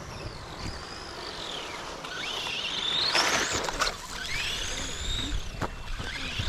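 Vintage Schumacher Bosscat RC buggies' electric motors whining, the pitch rising and falling again and again as the cars speed up and slow down, with a few sharp knocks from the cars hitting the dirt or bumps.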